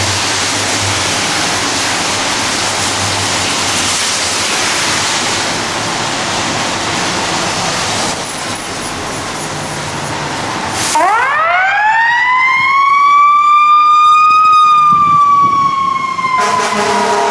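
Heavy rain hissing steadily, then about eleven seconds in a fire engine's siren winds up in a rising wail, peaks and slowly begins to fall. A second steady tone joins the siren near the end.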